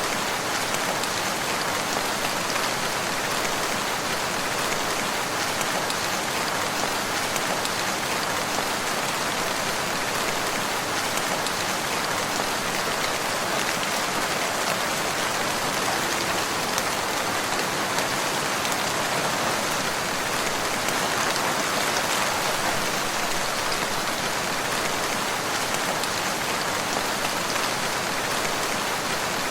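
Steady rain falling: an even hiss of many drops that holds constant, with no thunder or other events.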